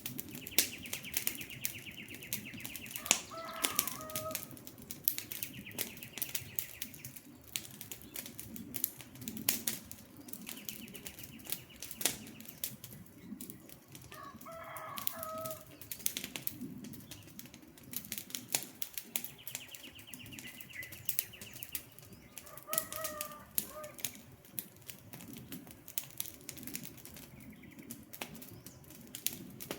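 Wood campfire crackling steadily with frequent sharp pops. Over it a bird gives a short call three times, about ten seconds apart, and a higher buzzy trill comes and goes in two-second stretches.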